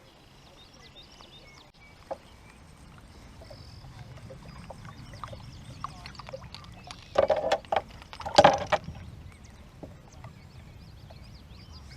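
Splashing and knocking around a fishing kayak on a lake, with two short bursts about seven and eight and a half seconds in.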